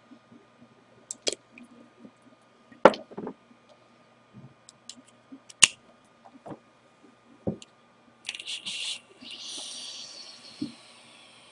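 Scattered clicks and knocks of handling the dripping atomizer and juice bottle, then about eight seconds in a roughly three-second stretch of crackling and hissing as the freshly dripped 0.1-ohm coil is fired and a draw is pulled through the wide-open airflow slots.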